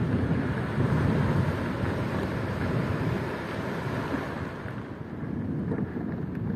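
Wind buffeting the microphone, with a broad rushing wash that fades about four and a half seconds in.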